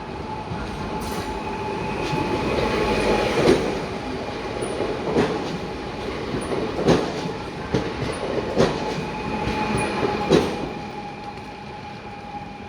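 A train running on rails: sharp wheel clacks over rail joints come every second or two, over a steady rumble with a held whine.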